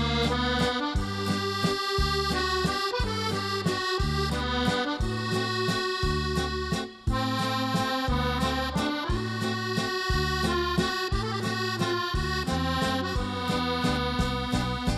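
Instrumental accordion music with a steady, bouncing bass-and-chord accompaniment, with a brief break about seven seconds in.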